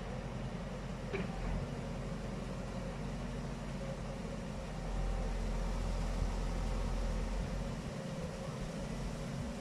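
Heavy vehicle engine running steadily with a low rumble that grows louder about five seconds in; a single short click about a second in.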